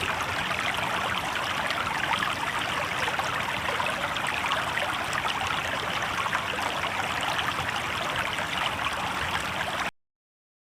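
Shallow river water babbling and trickling steadily over rocks; it cuts off abruptly near the end into dead silence.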